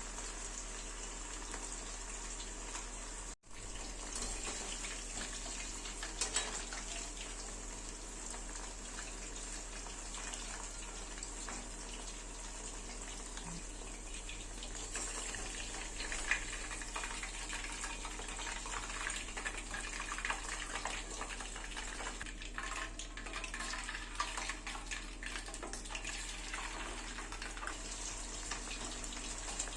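Chicken frying in hot oil: a steady sizzle with constant fine crackling. The sound drops out for an instant about three seconds in.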